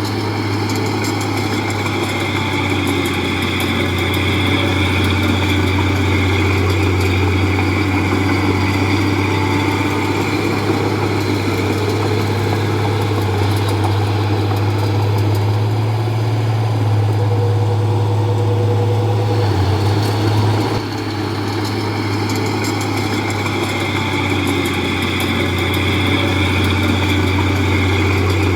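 Bulldozer's diesel engine running steadily under work, with a strong low hum; the sound dips briefly about twenty seconds in, then carries on.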